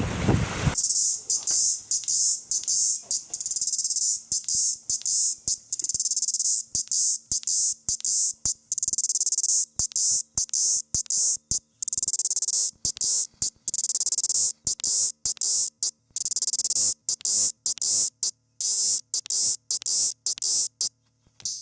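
High-pitched insect buzzing that starts about a second in. It cuts out and comes back dozens of times at irregular intervals, giving a stuttering on-off rhythm.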